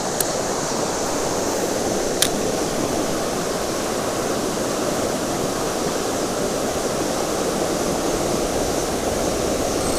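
Fast creek current rushing steadily, with one faint click about two seconds in.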